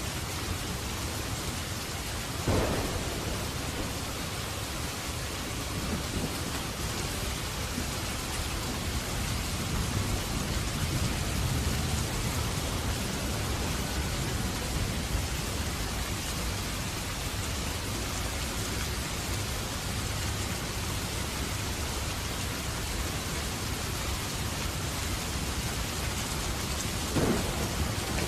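Steady rain falling, with thunder: a sharp crack about two and a half seconds in, a low rumble building in the middle, and another crack near the end.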